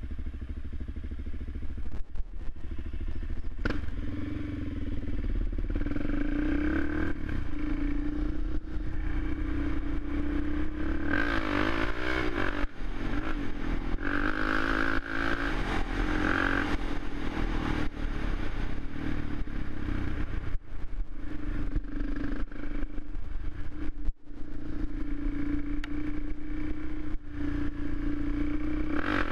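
Suzuki LTZ 400 quad's single-cylinder four-stroke engine running, its note rising and falling several times as it is revved, with scattered light knocks.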